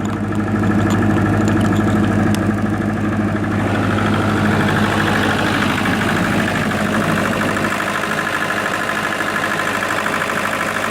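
A 1995 Libby MEP-803A 10 kW military diesel generator, driven by a four-cylinder Onan diesel, running at a steady speed with a deep hum and a buzzy upper tone. About four seconds in the upper buzz grows brighter, and a few seconds later the deepest part of the hum falls away.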